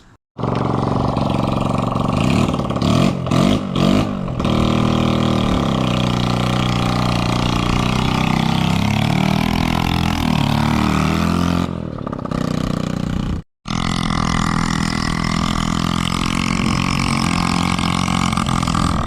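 1974 Honda XL100's small single-cylinder four-stroke engine running on a test ride, its pitch rising and falling as it revs and pulls, with a few sharp revs a few seconds in. The sound breaks off briefly about thirteen seconds in and then carries on.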